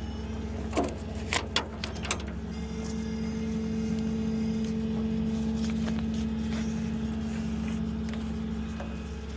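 A tow truck's engine running steadily, with a few sharp clicks early on and a steady whine that swells and fades over a few seconds in the middle.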